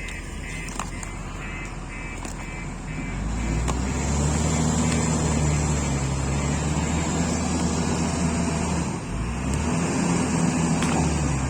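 Heavy diesel engine at a coal loading site revving up a few seconds in and running hard under load, easing off briefly about nine seconds in before it picks up again. A rapid pulsing beep sounds over a low idle at the start.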